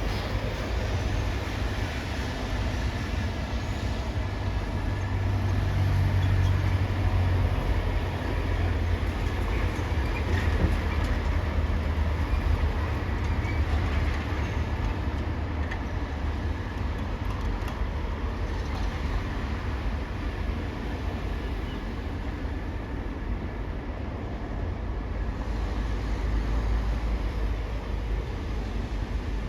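Steady low rumble of heavy engines, swelling slightly about six seconds in and again near the end.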